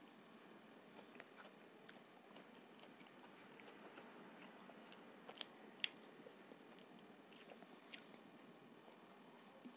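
Close-miked chewing of homemade vegetable pizza topped with capsicum and onion: faint soft mouth clicks and crunches, with a few sharper clicks in the middle.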